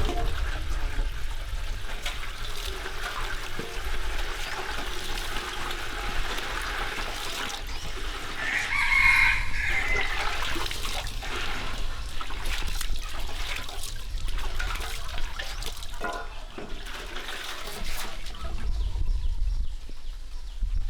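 A rooster crowing once, a little before the middle, over a steady hiss of background noise.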